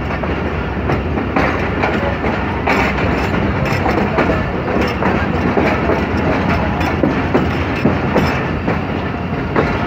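Passenger train coaches pulling out of a station, heard from an open coach doorway: a steady rumble of wheels on the rails, with irregular clicks as the wheels run over rail joints.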